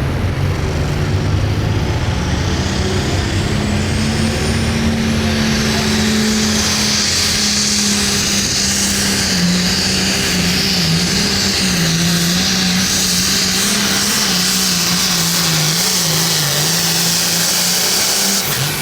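Hot Farm class pulling tractor's turbocharged diesel engine running at full power under load during a sled pull. A high turbo whine rises over the first several seconds, and the engine's pitch wavers as it works through the run.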